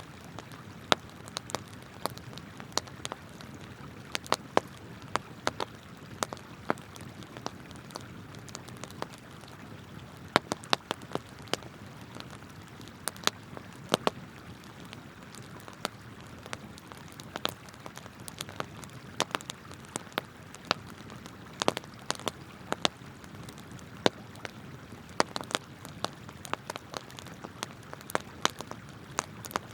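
Wood campfire crackling, with sharp pops at irregular intervals, over the steady rush of a flowing river.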